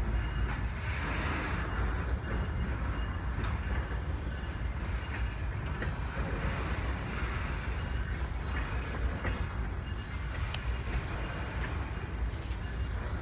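Freight train's loaded flatcars rolling past, a steady rumble of steel wheels on the rails.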